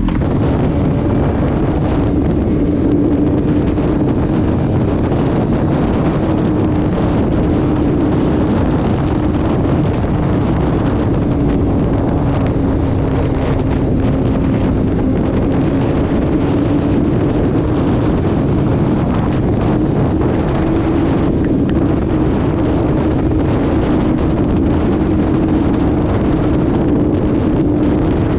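Steady wind rush on the microphone from a vehicle moving at highway speed, over a steady engine drone that wavers slightly in pitch.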